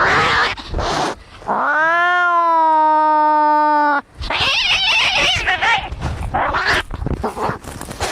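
Cats fighting: harsh hissing and spitting, then one long yowl about a second and a half in that rises in pitch and holds steady for some two seconds before breaking off sharply into more hissing and snarling.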